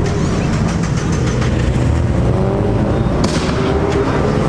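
Car engine and exhaust rumbling steadily, its pitch slowly rising, with several sharp cracks over it, the clearest about three seconds in.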